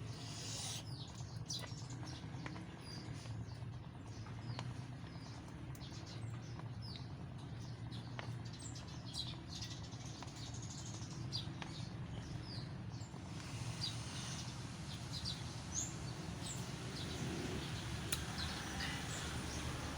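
Small birds chirping on and off, short high chirps scattered throughout, over a steady low background hum.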